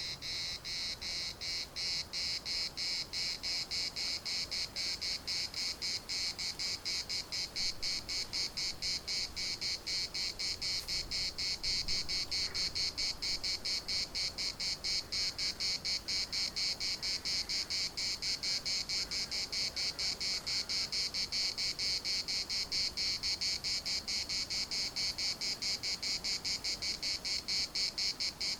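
Cicada singing: a loud, high-pitched buzz chopped into rapid, even pulses that repeat steadily without a break.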